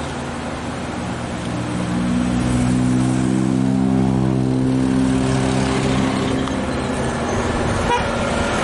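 Dump truck's diesel engine labouring up a steep climb at full throttle. A steady, loud drone swells about two seconds in and fades near the end.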